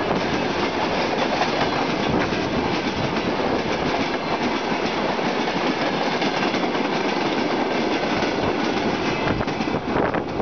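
A freight train's tank cars rolling past close by: a steady loud rolling noise of steel wheels on the rails, with clicks as the wheelsets pass over rail joints.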